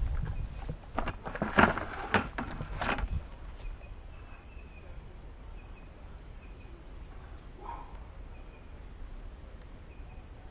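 A run of sharp knocks and clatters for about three seconds, then quiet outdoor background with faint short bird chirps repeating.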